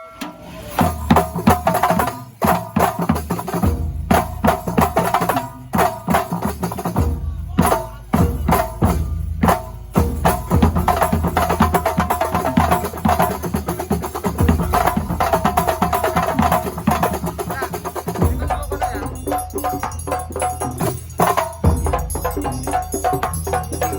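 Banyuwangi kuntulan music: an ensemble of frame drums and other hand percussion playing a fast, dense rhythm, with some pitched tones running through it.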